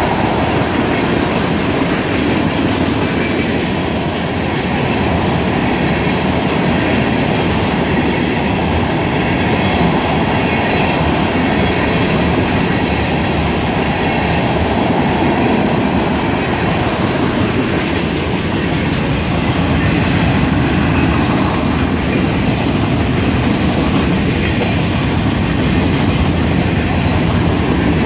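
Florida East Coast Railway freight cars rolling past at speed, a loud, steady clickety-clack of wheels over rail joints. Some of the wheels have flat spots.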